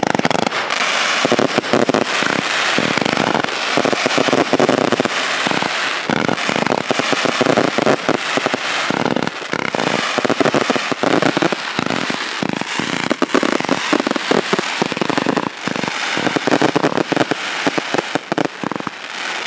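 Six Xplode Double Deck fireworks fired together: a dense, continuous barrage of rapid shots and bangs with no break.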